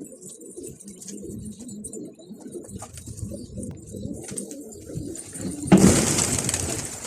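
Pigeons cooing in a low, continuous warble, then a loud rushing noise for about a second near the end.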